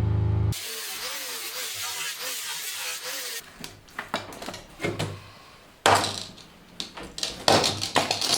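Music stops shortly after the start, followed by about three seconds of a hissing power tool whose pitch wavers. Then a string of irregular sharp knocks and clatters of workshop handling, the loudest two in the second half.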